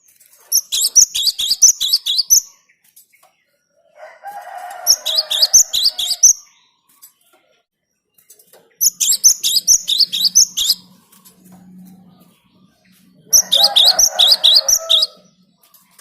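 Cinereous tit (gelatik batu) singing: four bouts of about two seconds each of rapid, repeated high notes, with a lower, rougher chattering under the second and last bouts.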